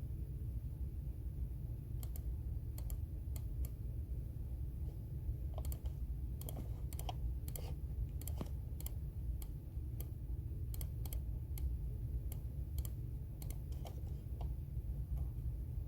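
Computer keyboard typing: irregular keystroke clicks that start about two seconds in and come in quick runs through the middle, over a steady low hum.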